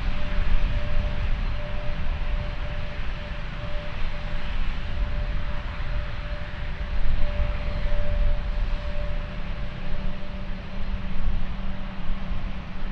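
Jet airliner engines running steadily: an even rush of engine noise with a constant mid-pitched whine and a heavy, unsteady low rumble.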